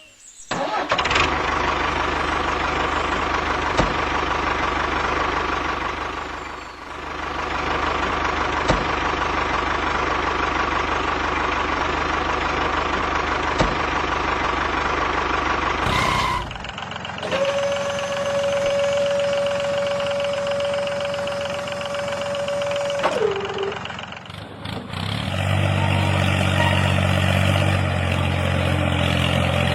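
Steady engine-like machine running noise in several abruptly cut sections. First there is a constant high whine; then a lower whine that drops in pitch as it stops. Near the end a low engine rumble takes over.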